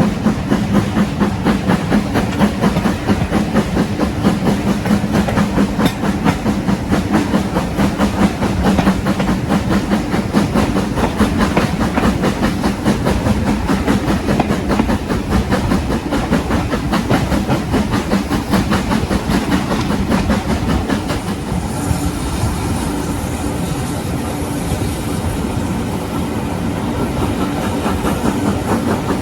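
Train running along the track: a steady low hum under a fast, continuous clatter of wheels. About 21 seconds in, the hum fades and the sound becomes a little quieter.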